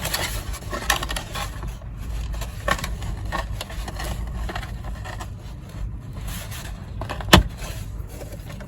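Hands handling a notebook's box and its little closures: scattered rustles and small clicks, with one sharp snap about seven seconds in, over a low steady rumble.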